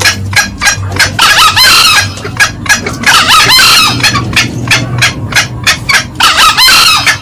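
Green junglefowl calling, male and female: a rapid run of sharp clucks, about four a second, broken by three louder, denser cackling bouts about a second in, around three seconds, and near the end.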